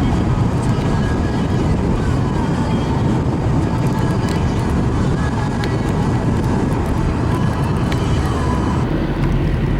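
Vehicle driving on the road: a steady, loud rumble of engine and road noise.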